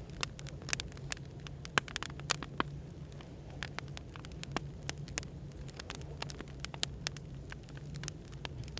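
Wood fire crackling, with irregular sharp pops and snaps, over the steady low hum of café background noise.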